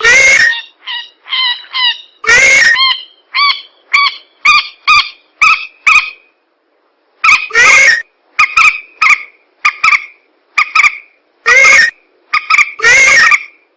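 Lure recording of swamp-bird calls, mandar (rail) and pelan, played very loud and distorted: harsh honking calls in runs of short repeated notes, about two a second, broken by a pause about six seconds in.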